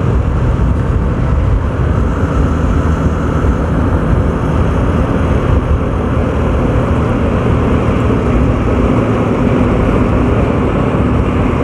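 Wind rushing over the microphone at high speed on a Yamaha R15 V4, with the bike's 155 cc single-cylinder engine running steadily underneath. The level stays even, with no change in pitch.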